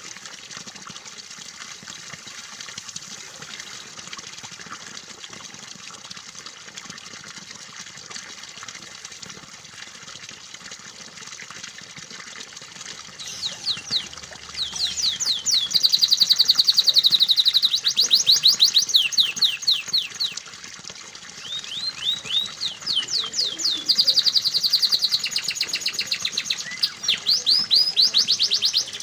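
Steady running water for about the first half, then a canary singing over it: long phrases of fast repeated trilled notes, with a short break about two-thirds of the way through.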